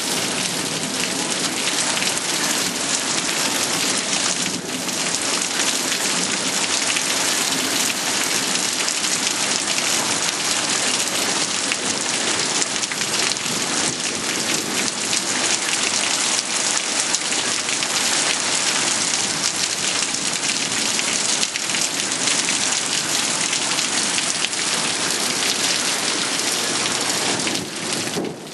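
Rain falling steadily in a thunderstorm: a dense, even hiss of rain on surfaces, with a brief dip in loudness near the end.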